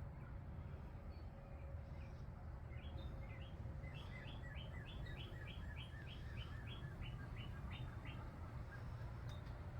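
A small bird calling a quick series of sharp chirps, about three a second for some five seconds, over a faint low rumble.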